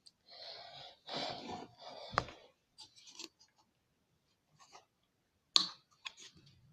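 Handling noise from slime-making supplies: rustling and scraping for the first couple of seconds, then scattered clicks of plastic, with a sharp click about two seconds in and a louder one near the end.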